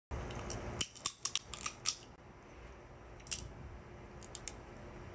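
Snow crab leg shells being cracked open: a quick series of sharp cracks and snaps in the first two seconds, another crack about three seconds in, then a few light ticks of shell breaking.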